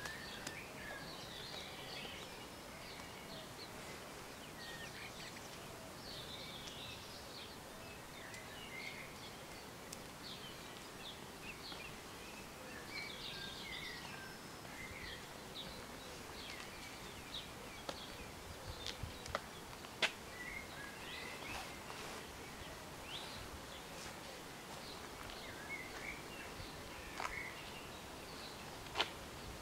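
Small birds chirping and singing on and off over a steady outdoor background hum, with a few sharp ticks, the loudest about two-thirds of the way through.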